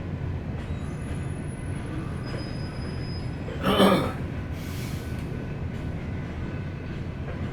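Freight train cars rolling past a street crossing with a steady low rumble. About four seconds in there is one brief, louder burst of noise.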